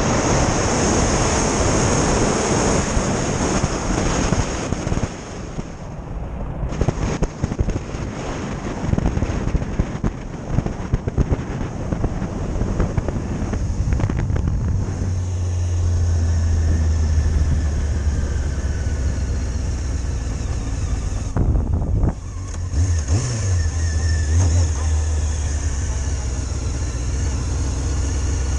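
Motorcycle being ridden, with rushing wind and road noise; from about halfway a strong, steady low engine note comes up and holds.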